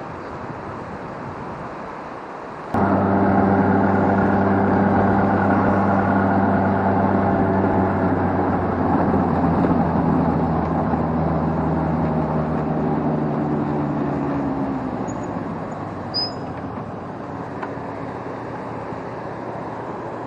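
A steady rushing noise, then about three seconds in an abrupt change to a motor vehicle's engine running with a steady low drone, which slowly fades over the following ten seconds or so.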